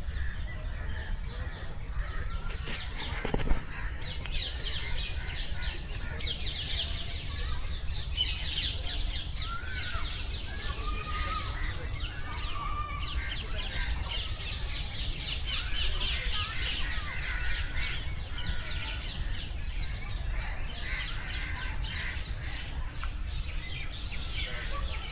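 Many birds chirping, a dense run of quick high chirps with a few lower, looping call notes mixed in, over a steady low rumble. A single sharp knock about three and a half seconds in.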